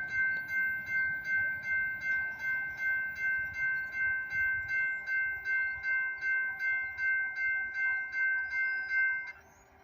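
Railroad crossing warning bell ringing steadily at about three strokes a second, then cutting off abruptly near the end.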